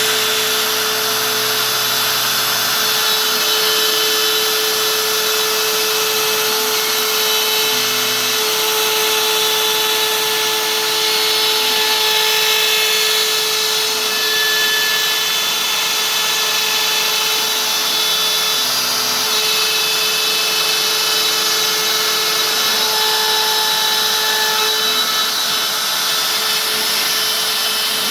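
OpenBuilds OX CNC machine cutting: the router spindle runs with a steady whine, while the stepper motors' lower tones change pitch every few seconds as the axes switch moves.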